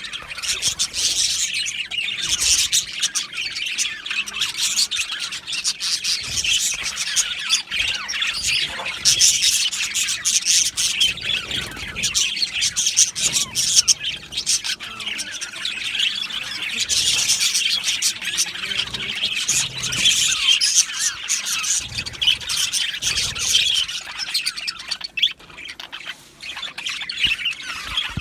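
A colony of budgerigars chattering together: a dense, continuous stream of high chirps, warbles and squawks from many birds at once, easing off briefly near the end.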